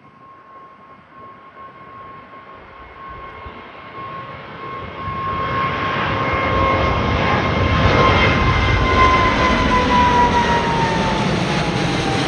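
Boeing 777-200ER climbing out overhead after takeoff, its jet engines growing steadily louder over the first half into a loud, full rumble. A steady high whine rides on top and drops in pitch near the end as the aircraft passes over.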